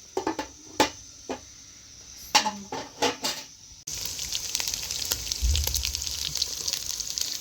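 A few sharp clinks and knocks, like utensils against cookware. About four seconds in, food starts sizzling and crackling in hot oil in a pan.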